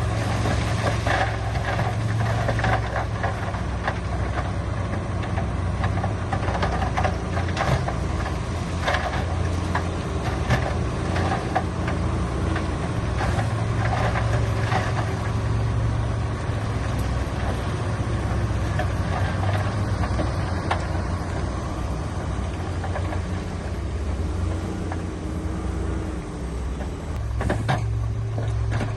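Diesel engine of heavy earthmoving machinery running steadily, with scattered clanks and knocks on top.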